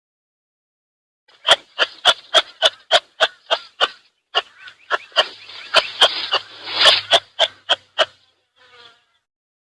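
An animal calling in a rapid series of short, sharp chirps, about three a second, with a denser buzzing stretch in the middle.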